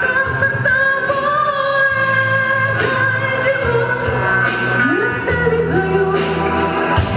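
Live rock band music with a held, sustained sung vocal line over guitar, bass and drums.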